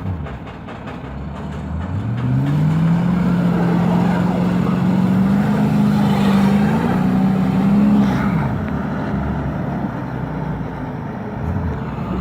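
A heavy vehicle's engine revs up about two seconds in and is held at high revs under strain, climbing a little further. About eight seconds in it drops back.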